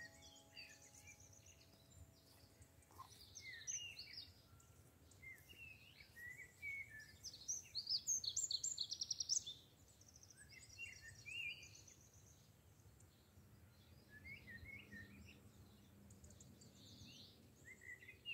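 Several songbirds singing and chirping, with a fast trill of rapidly repeated notes, the loudest part, from about eight to nine and a half seconds in.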